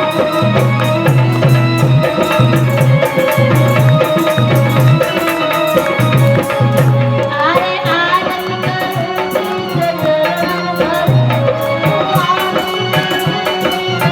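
Hindi devotional aarti music in a passage without transcribed words: tabla keeps a steady beat under sustained melody lines.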